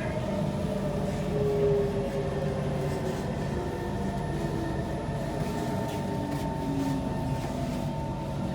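Kawasaki C151 metro train running, heard from inside the car: a steady rumble of wheels on rail with the traction equipment's steady tones over it, and a few slowly falling tones.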